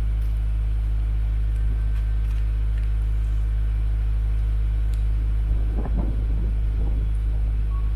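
Subaru WRX S4's flat-four engine idling through an EXAS EVO Tune aftermarket muffler during a cold-start warm-up, a steady deep exhaust drone. A brief extra noise rises over it about six seconds in.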